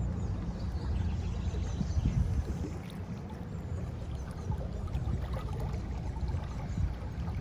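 Water lapping and splashing against the hull of a small electric boat under way, with wind rumbling on the microphone.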